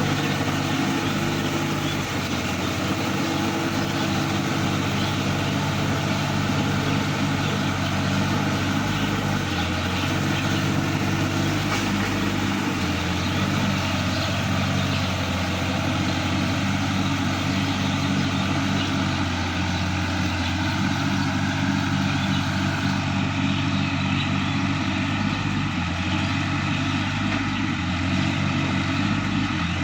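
Sonalika DI-50 RX tractor's diesel engine running steadily at an even speed.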